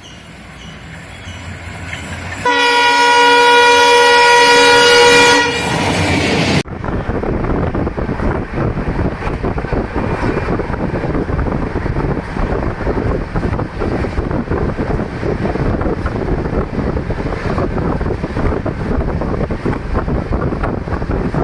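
Electric locomotive horn sounds for about three seconds, a couple of seconds in. After an abrupt cut, the loud steady rushing and rattling of an express train running at around 130 km/h, with wheel and wind noise.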